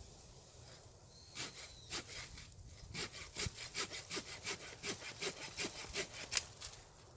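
Hand saw cutting through wood in quick back-and-forth strokes, about four a second, the last stroke the loudest before it stops.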